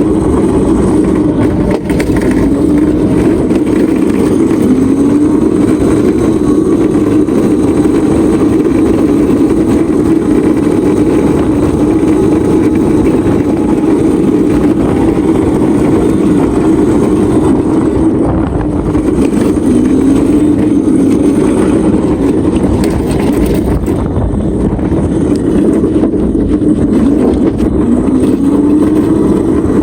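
Small vehicle's motor running continuously while being ridden, its pitch rising in short glides several times as it speeds up.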